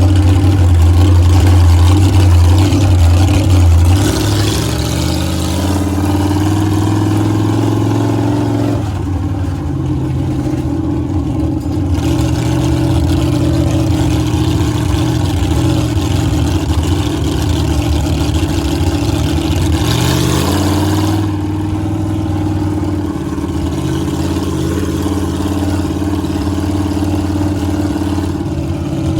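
Monster truck engine running steadily. Its pitch rises as it revs up about four seconds in, drops back about nine seconds in, and rises again about twenty seconds in.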